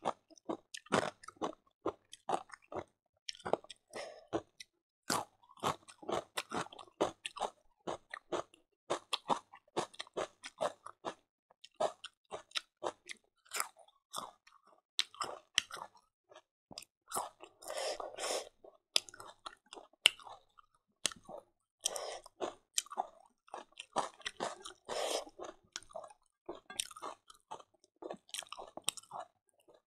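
Close-miked chewing of fried silkworm pupae eaten with rice and greens: a steady run of sharp, crisp crunches and mouth sounds, denser in a couple of stretches.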